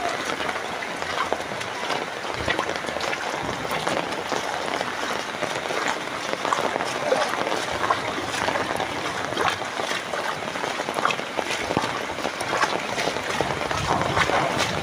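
Heavy rain falling on floodwater: a steady, dense patter of many small drops.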